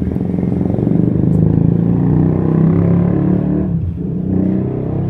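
Motor vehicle engine running and being revved, its pitch rising and falling, with a brief drop in level a little before the end.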